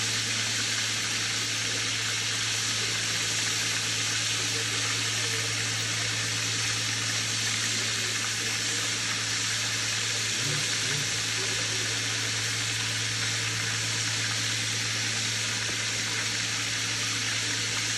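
Breaded venison steaks frying in hot oil in a cast-iron Dutch oven, a steady even sizzle, with a steady low hum underneath.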